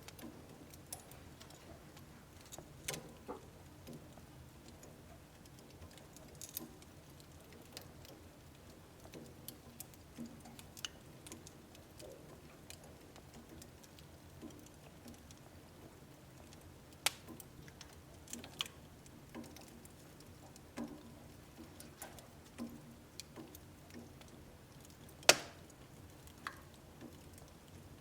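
Wood fire burning in a wood stove: irregular small crackles and pops over a low steady hiss, with a few louder sharp cracks, the loudest about 25 seconds in.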